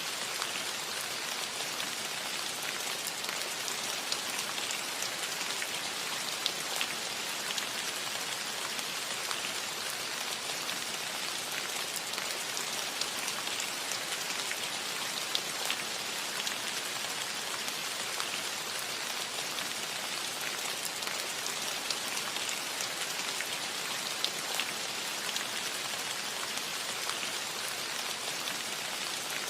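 Steady rain falling on a metal roof: an even hiss with many small individual drop taps.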